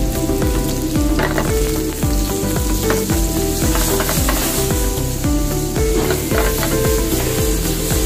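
Sliced mushrooms sizzling in hot oil in a frying pan as they are stirred and tossed, with background music with a steady beat playing under it.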